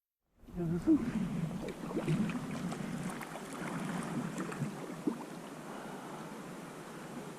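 Sea water splashing and lapping around a sea kayak, with many small splashes; it starts abruptly about half a second in.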